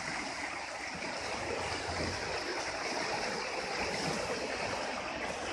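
Rain-swollen ditch of floodwater rushing steadily past, a continuous even rush of moving water.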